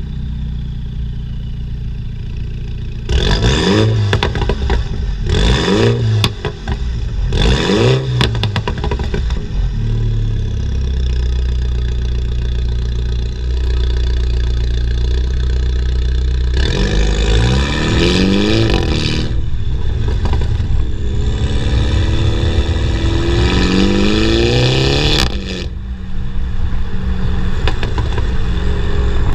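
Mini John Cooper Works turbocharged four-cylinder through a JCW Pro sports exhaust with its valves open, heard at the tailpipe. It idles, is blipped three times with crackles and pops on the overrun, settles back to idle, then climbs twice in revs under load before running steadily.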